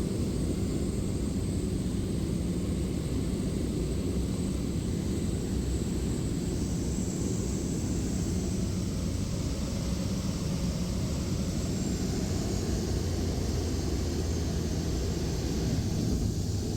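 Steady drone of a light propeller aircraft in flight, heard from inside the cabin: an even, low-weighted engine-and-air noise with no break.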